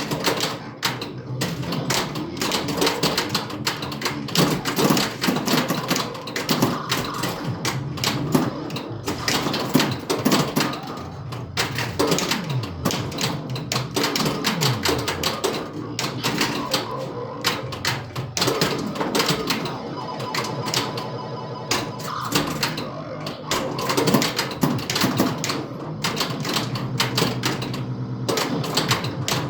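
Bally Centaur pinball machine in five-ball multiball: a dense, rapid clatter of flippers, pop bumpers and balls striking targets, over the game's electronic sound effects with rising and falling synth tones.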